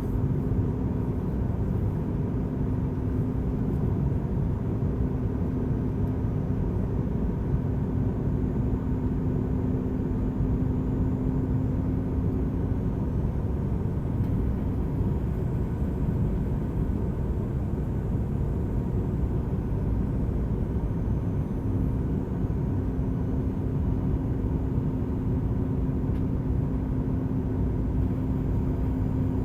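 Steady cabin noise of a Boeing 737 MAX 8 airliner in flight: engine and airflow rumble with a steady hum. The hum fades out for several seconds midway and then returns.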